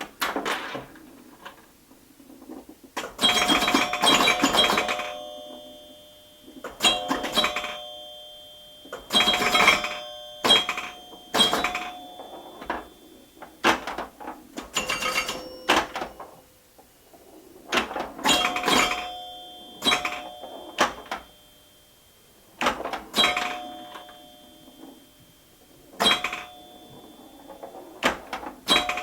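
Bright bell-like chimes struck again and again in irregular phrases, each strike ringing on with steady tones.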